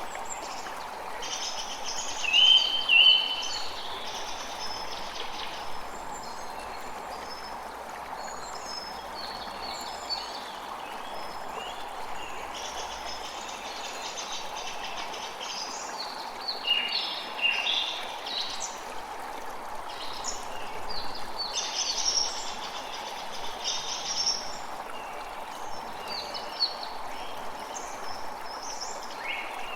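A creek running steadily, with songbirds chirping and calling over it throughout; the loudest calls come about two to three seconds in.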